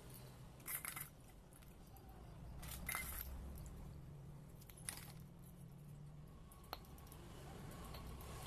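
Small metal parts and hand tools clinking and clattering while a diesel fuel pump is being assembled. There are two short rattles and a few single sharp clicks over a steady low hum.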